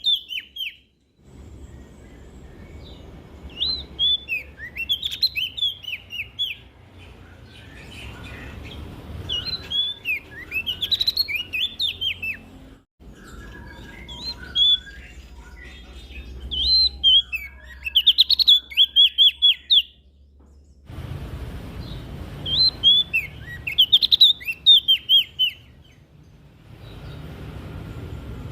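Prenjak daun, a small leaf warbler, singing: phrases of quick, high, sweeping chirps lasting a few seconds each, separated by short pauses, over a faint low background hum.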